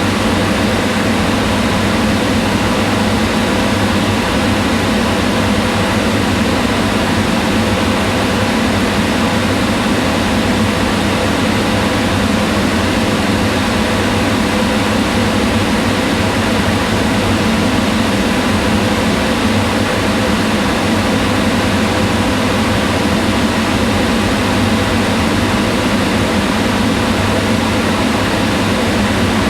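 Kitchen range hood exhaust fan running steadily, a constant whooshing hum of moving air with a low drone and faint steady tones.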